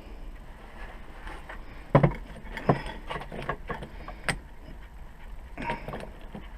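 A few sharp metal knocks and clinks of tools and puller parts being handled and fitted, the loudest about two seconds in, over a low steady hum.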